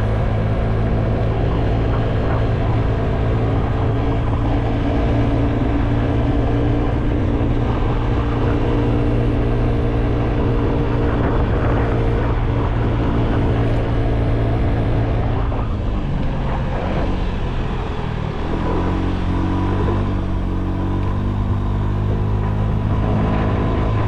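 Vehicle engine running steadily under way; about two-thirds of the way through its pitch drops as it slows, then rises again in steps as it picks up speed.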